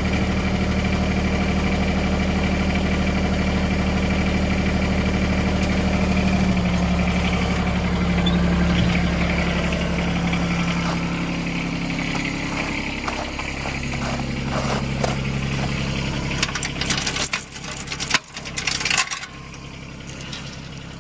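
Tractor engine running steadily, dropping in pitch about six seconds in and fading away over the next several seconds. Near the end, a series of sharp metallic clinks and knocks, consistent with the tow chain being handled.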